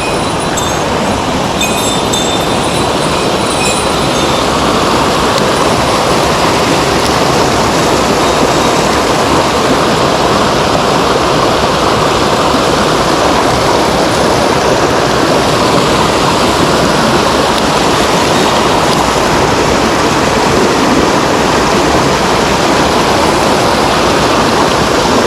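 Mountain stream water rushing loudly and steadily.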